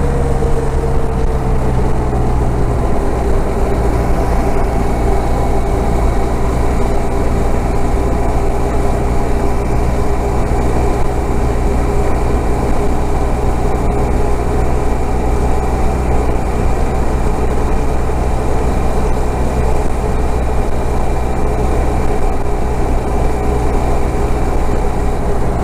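Motorcycle engine running at a steady highway cruise, with a rush of wind underneath. The engine note drops slightly over the first couple of seconds, then holds steady.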